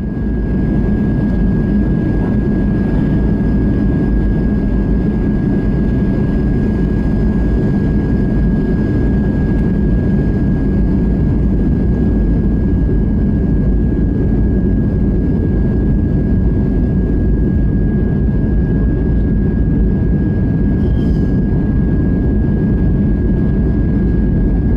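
Airliner cabin noise on approach: a steady, loud roar of jet engines and airflow, with a steady high whine over it.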